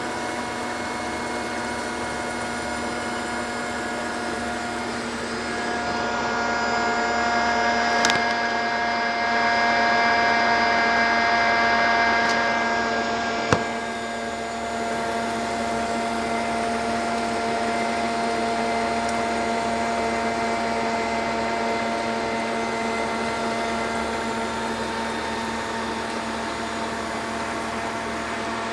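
Small decorative fountain running: its electric pump hums steadily under the rush of falling water. A louder stretch comes several seconds in, and there is a sharp click about thirteen seconds in.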